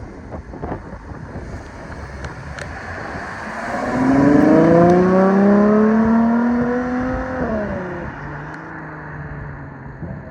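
Ferrari 12Cilindri's 6.5-litre V12 accelerating, its note rising steadily in pitch and growing loud, then dropping in pitch about seven seconds in and fading to a lower steady hum.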